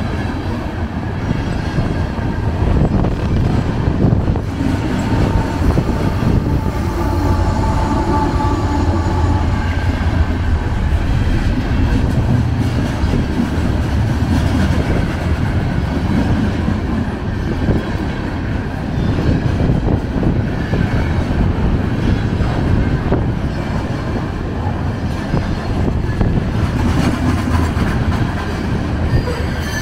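Freight train of covered hopper cars passing at speed, steel wheels running steadily on the rails.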